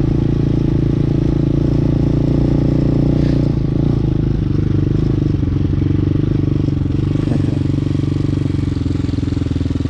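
Hawk 250cc motorcycle engine running steadily, its pitch holding level with a slight change in tone about three and a half seconds in.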